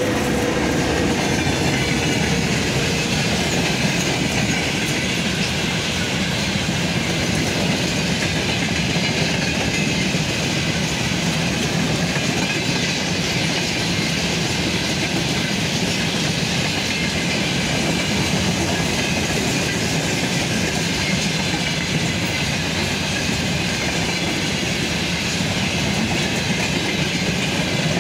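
Freight train wagons rolling past at speed behind a VL80K electric locomotive: a steady, even noise of wheels running on the track, close to the line.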